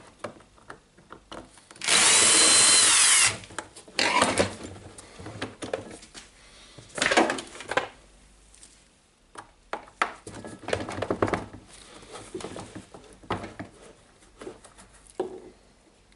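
Cordless drill-driver running for about a second and a half to back out a screw from the radio's plastic casing, its whine dropping as it stops. Shorter bursts and clicks of the casing being handled follow.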